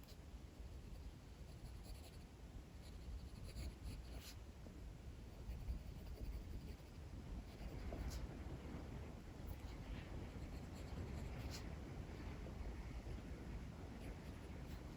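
Sketching on paper: light, scratchy drawing strokes and small ticks, over a steady low rumble of strong wind.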